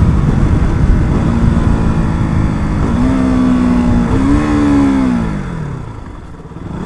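KTM RC 200's single-cylinder engine under wind rushing over the microphone, during a rev-matched downshift: the engine note holds steady, steps up about three seconds in, rises again with a throttle blip about a second later, then falls steadily as the bike slows.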